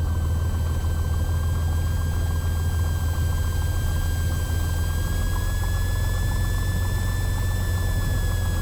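Cessna 182T's six-cylinder Lycoming IO-540 engine running at low power as the plane rolls out and taxis after landing, heard from inside the cabin as a steady low drone. A thin high whine runs over it, rising slightly in pitch partway through and easing back down near the end.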